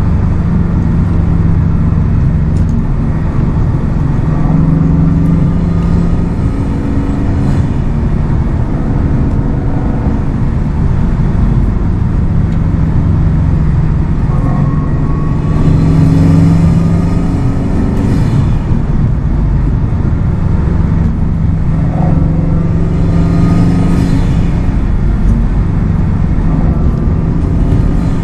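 Subaru WRX STI's turbocharged flat-four engine and exhaust on a spirited drive, the engine note rising and falling as it revs through the gears, over steady road and tyre noise. It gets louder in two hard pulls, about halfway through and near the end.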